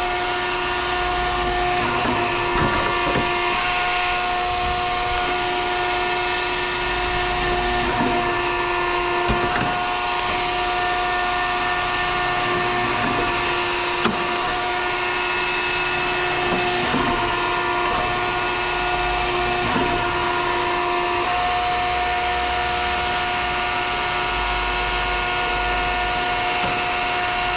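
Scrap shear running: a steady machine whine with scattered short knocks of metal.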